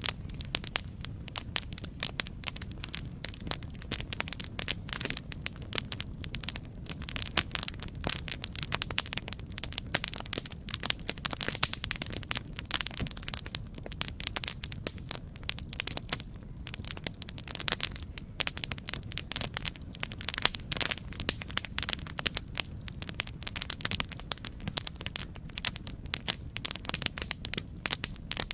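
Campfire crackling: wood burning with constant, irregular snaps and pops over a low, steady rumble of the flames.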